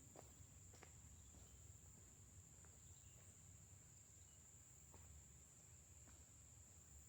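Faint, steady high-pitched trilling of late-summer insects, with a few soft footsteps on the overgrown rail bed.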